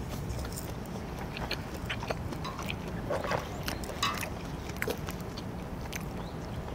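Close-up chewing of grilled pork, with light clicks of chopsticks against a cast-iron griddle lid, over a steady low rumble.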